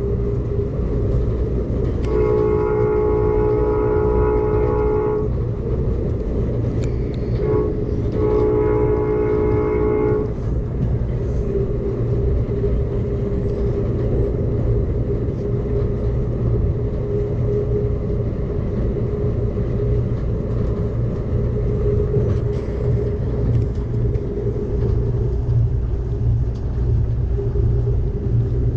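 Passenger train running at speed with a steady rumble from the wheels on the track, and the locomotive's chime horn sounding two long blasts: one starting about two seconds in and lasting about three seconds, another about eight seconds in lasting about two seconds. After the horn stops, a faint steady hum carries on over the rumble.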